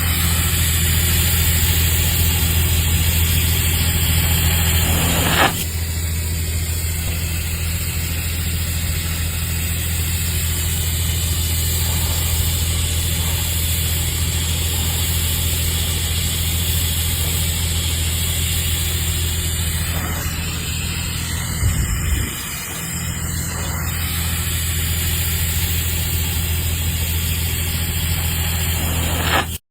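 TIG (argon) welding arc running a root pass: a steady electrical buzz with a hiss of gas and arc noise. It breaks off briefly twice, about five seconds in and about twenty-two seconds in.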